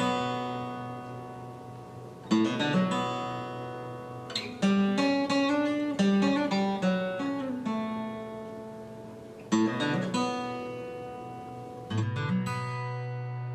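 Guitar music: chords strummed a few times and left to ring out, with a slow picked melody in between and a held low note near the end.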